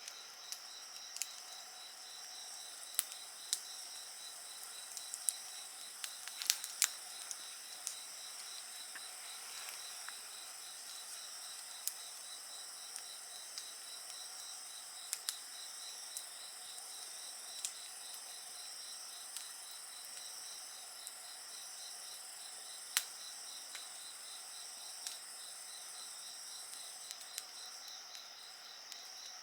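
Wood fire crackling with scattered sharp pops, the strongest about three, six and a half and twenty-three seconds in, over a steady high chorus of insects calling with a rapid pulsing trill.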